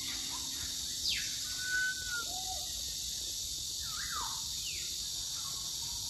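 Birds calling: a few sharp falling whistles about a second in and again around four seconds, with a short held note and a lower arched note between them, over a steady high hiss.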